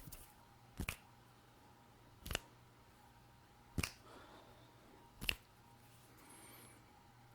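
Four sharp clicks made by hands close to the microphone, evenly spaced about a second and a half apart.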